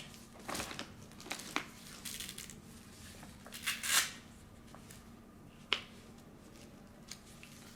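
Rustling and scattered clicks as a posture corrector's fabric straps are handled and fitted on, with a louder rustle about four seconds in and a sharp click shortly after, over a faint steady hum.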